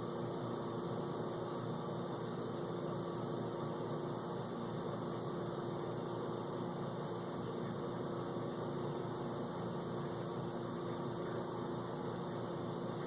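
Whirlpool dishwasher filling with water for the final rinse: water running into the tub through the open inlet valve, a steady hiss with a steady hum underneath.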